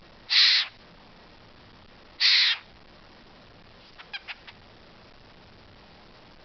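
A pet bird giving two short, harsh calls about two seconds apart, then a few faint clicks a little later.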